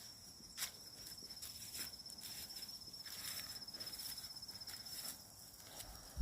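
A steady, high, finely pulsed insect trill, typical of a cricket, which stops about five seconds in. Beneath it, irregular light crunching of footsteps on the forest floor.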